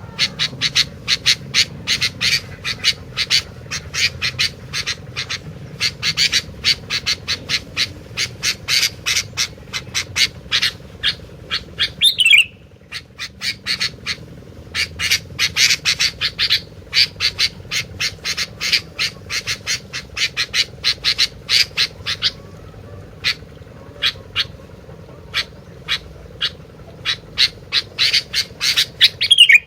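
Gentilang songbird singing without a break: a fast run of short, sharp, high notes, several a second. About twelve seconds in there is a falling squeal and a brief pause, and near the end another falling squeal.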